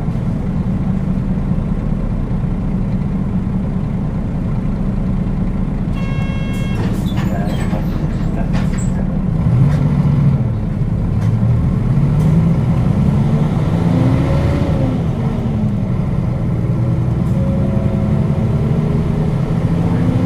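Nissan Diesel KL-UA452KAN city bus's diesel engine heard from inside the cabin, idling steadily. About six seconds in there is a short high electronic chime. From about ten seconds in the engine revs rise and fall again and again as the bus pulls away and moves up through the gears.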